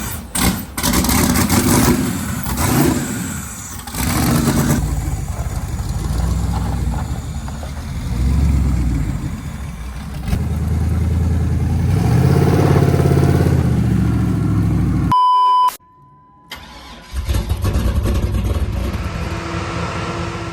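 Car engine running and revving, with pitch rising and falling in stretches. The sound cuts off abruptly about three-quarters of the way in, a short steady beep sounds, and after a brief quiet the engine is heard again.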